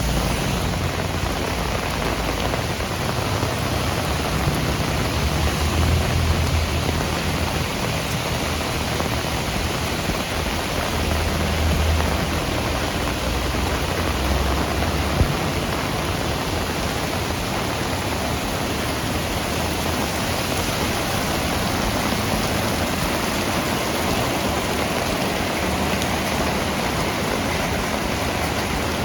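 Heavy rain falling in a steady downpour. A low rumble swells and fades a few times in the first half.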